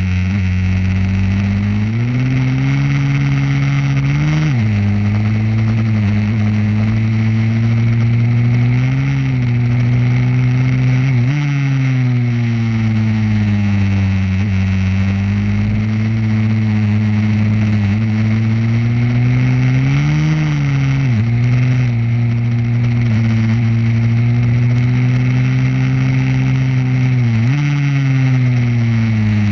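Pit bike engine running hard, its pitch climbing under acceleration and dropping sharply at gear changes, several times over.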